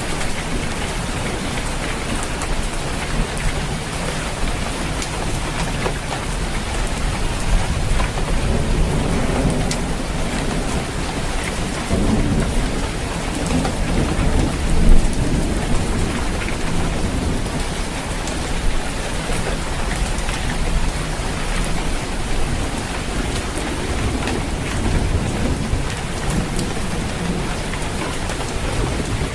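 Steady heavy rain pattering on a roof, with low rolling rumbles of thunder underneath that swell about halfway through.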